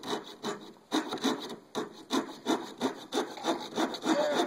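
Hand saw cutting through plywood in quick back-and-forth strokes, about three a second.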